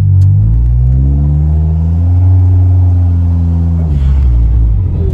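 Turbocharged Perodua Myvi engine accelerating under light throttle, heard inside the cabin. The revs rise for about two seconds, hold, then drop sharply about four seconds in.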